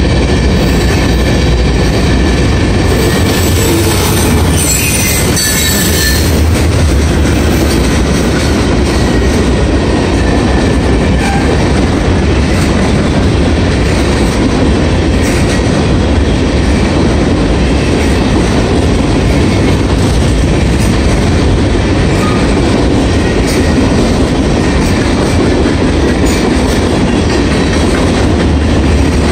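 Norfolk Southern freight train's covered hopper cars rolling past at close range: a loud, steady rumble with wheels clattering over the rails. A brief high squeal comes about three seconds in.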